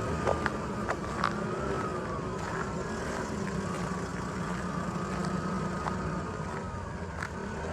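A motor vehicle's engine running steadily in the street, a low hum with a faint wavering whine above it, and scattered sharp clicks.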